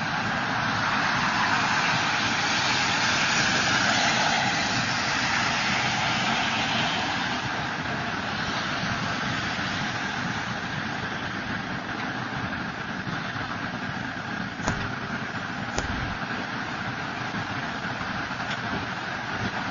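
Freight train rolling past, a steady rumble and rattle that swells over the first few seconds and then eases off. Two sharp clicks come about three-quarters of the way through.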